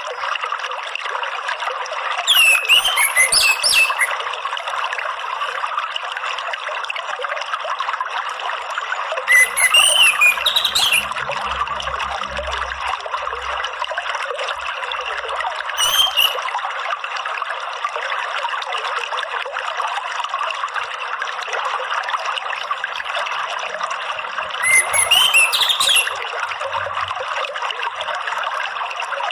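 Running water trickling steadily. An orange-headed thrush (anis merah) sings four short, loud phrases several seconds apart over it.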